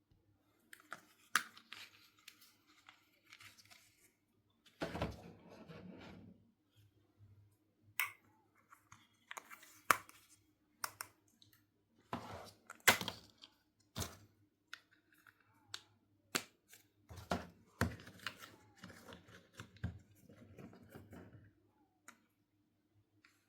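Small plastic toy pieces and packaging being handled during unboxing: irregular sharp clicks and taps with short stretches of rustling.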